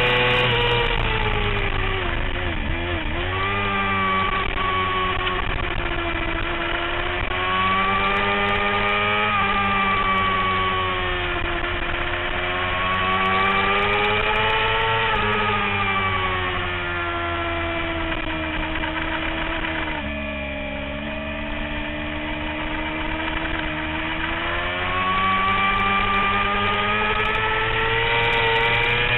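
Sportbike engine at track pace, the revs climbing and falling again and again as the rider accelerates and backs off through corners. The revs drop lowest about twenty seconds in, then climb again.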